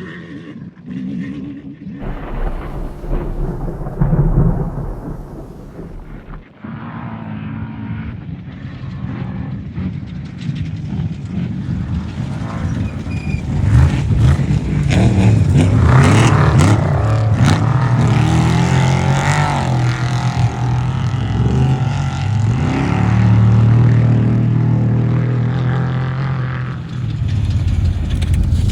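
Off-road race vehicle engines revving as they pass, getting louder about halfway through and staying loud.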